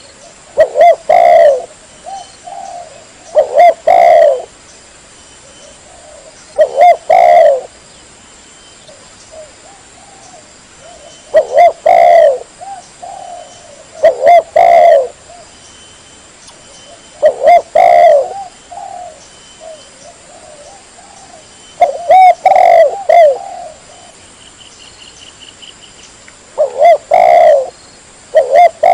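Spotted dove (tekukur) cooing: a phrase of several loud, low coos repeated every few seconds.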